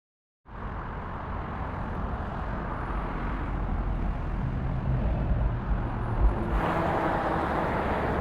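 Steady outdoor traffic noise, a low rumble of road vehicles, growing a little louder and brighter about two-thirds of the way through. It starts after a split second of silence.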